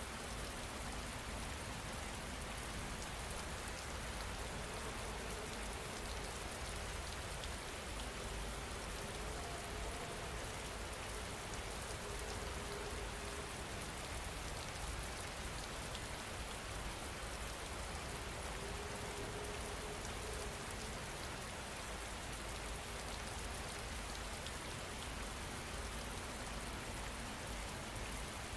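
Steady rain falling, an even hiss of drops on surfaces that holds constant throughout.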